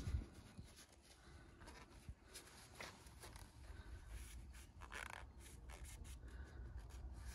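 Faint rubbing and scattered light clicks of a rag wiping an engine oil dipstick clean.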